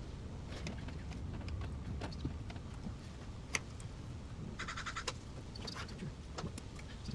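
Hand tools working on a car's engine bay: scattered sharp clicks and knocks over a low steady rumble, with one louder click about halfway through and a quick run of even ticks just after it.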